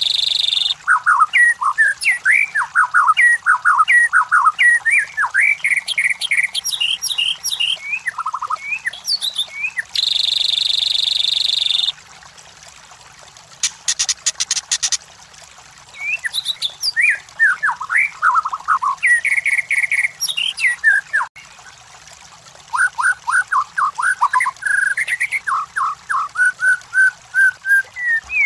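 White-rumped shama (murai batu) singing: quick runs of varied whistles and chirps that slide up and down, in phrases broken by short pauses. A loud steady buzzing trill fills about two seconds around ten seconds in, followed by a brief fast rattle.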